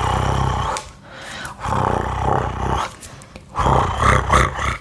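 Hands rubbing together close to the microphone, in three long passes of about a second each, with a deep rumble from the mic being brushed.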